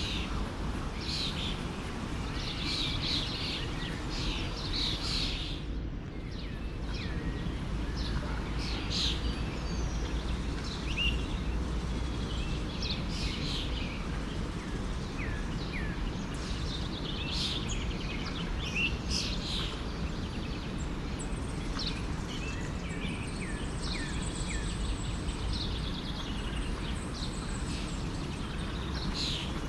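Forest stream flowing steadily, with many small birds chirping and calling over it. The birds drop out briefly about six seconds in.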